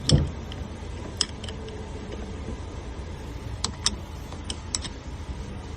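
Hand wrenches clinking against the metal nuts of a car battery's cable terminal as the nuts are worked loose: a few short, sharp metal clicks spaced irregularly over a steady low background rumble.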